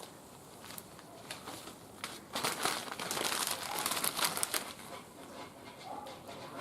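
Wood fire crackling in a barbecue grill, with scattered sharp pops. It swells into a denser, louder crinkling for about two seconds in the middle.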